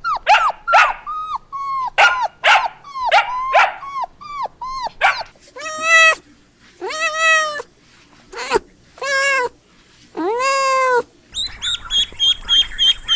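A small dog yapping in quick falling yelps for about five seconds, then a cat meowing four long, drawn-out meows. Near the end, rapid high chirping begins.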